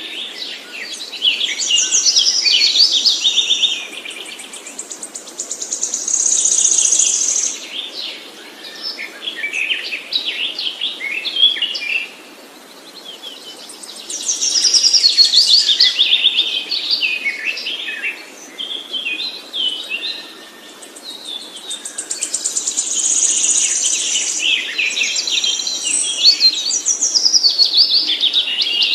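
A songbird singing long, fast, varied phrases of chirps, trills and whistles, in bouts of several seconds with brief pauses between them.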